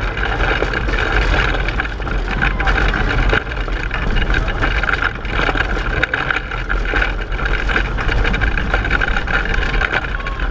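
Steady rumble and rattle of a pedal car rolling at speed, with wind noise across the onboard microphone.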